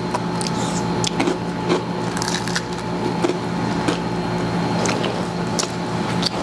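Close-miked eating sounds: a run of short smacks and clicks of chewing as spaghetti and fried chicken are eaten, over a steady low hum.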